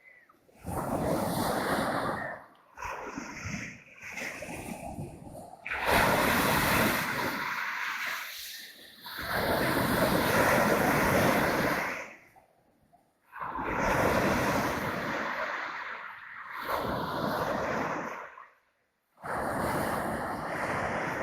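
Black Sea waves washing on the shore, a rushing noise that swells and falls, mixed with wind buffeting the microphone. It cuts off abruptly to near silence several times and comes back.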